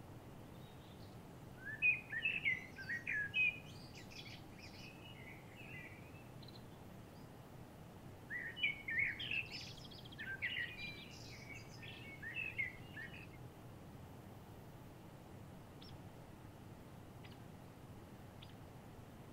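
A songbird singing two long phrases of rapid, varied high notes, the first about two seconds in and the second about eight seconds in, with a few faint short chirps near the end, over a steady faint outdoor hiss.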